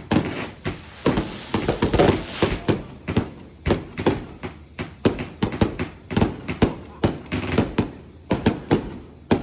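Fireworks going off in quick succession: an irregular string of sharp bangs, several a second.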